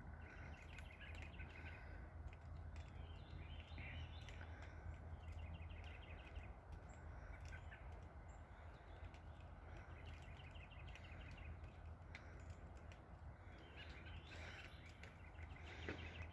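Faint outdoor birdsong: short, rapid trills of high chirping notes, repeated every few seconds, over a steady low hum.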